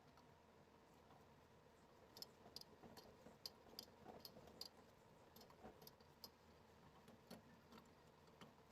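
Near silence with a few faint, irregular light clicks.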